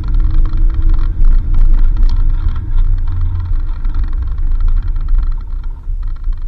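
Vehicle driving, a loud steady low rumble of engine and road with scattered knocks.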